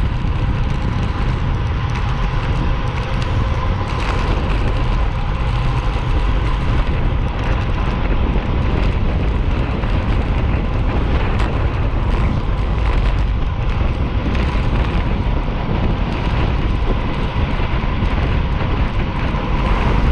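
Steady wind noise on the microphone while riding a bike, with road and tyre rumble underneath.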